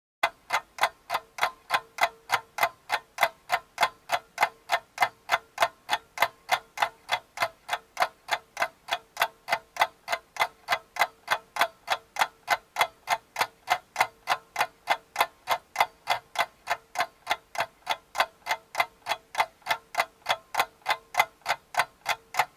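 Clock ticking steadily and quickly, about three ticks a second, with a faint steady hum beneath.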